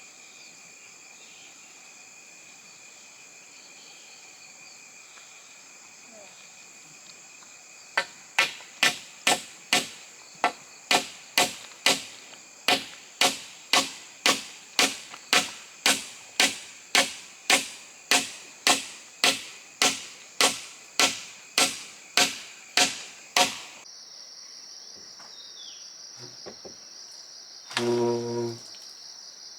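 Steady hammering, about two strikes a second for some fifteen seconds, each blow ringing briefly, as the wooden frame of a chicken coop is nailed together. Crickets or other insects chirr steadily throughout, and a short low pitched sound comes near the end.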